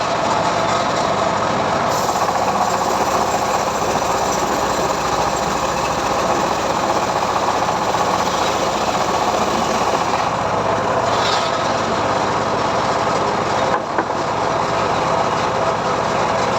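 Homemade sawmill running steadily, its engine and saw making a continuous machine noise, with a brief dip about fourteen seconds in.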